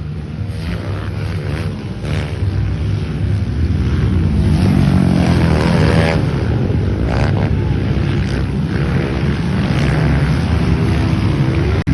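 Motocross dirt bike engines revving up and down. They grow louder about four seconds in.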